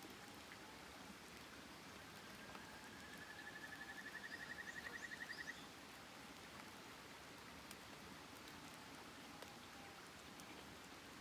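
Faint steady hiss, with a bird's rapid trill of about eight notes a second that rises slightly in pitch and grows louder for about three seconds, then stops. A few faint clicks.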